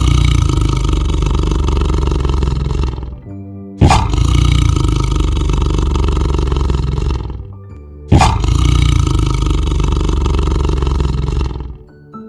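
A big cat roaring three times, each roar about three and a half seconds long and starting suddenly, over background music.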